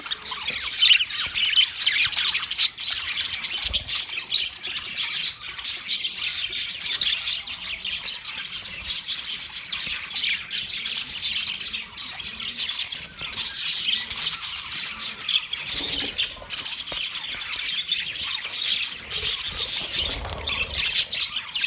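Budgerigars chattering: a dense, continuous run of quick high chirps and squawks.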